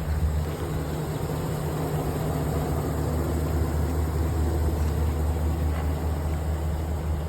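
2016 Chevrolet 2500 pickup's engine idling steadily.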